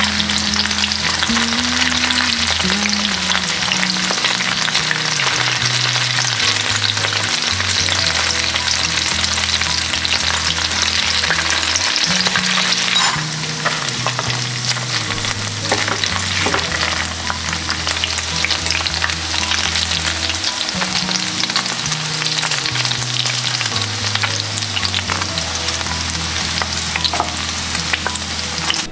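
Paneer cubes shallow-frying in hot oil in a non-stick pan: a steady, dense sizzle that eases slightly about halfway through, with a silicone spatula scraping and turning the cubes now and then.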